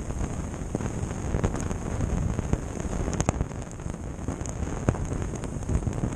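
Skis running over snow with wind rushing over a GoPro's microphone: a steady rushing noise with many scattered short clicks and knocks.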